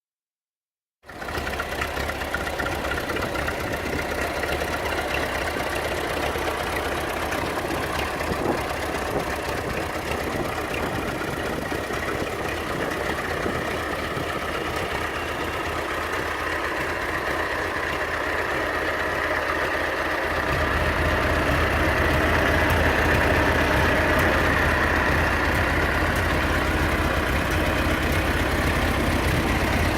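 Engine of a 1937 Ferguson Brown Type A tractor running steadily, with a deeper, slightly louder sound from about two-thirds of the way through.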